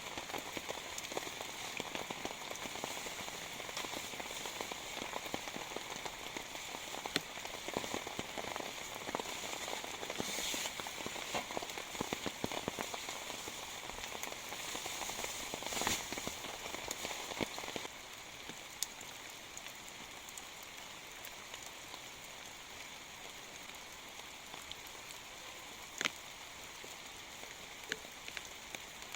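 Heavy rain falling, countless drops ticking on a surface. It becomes a little lighter about two thirds of the way in, with a few louder single drop hits near the end.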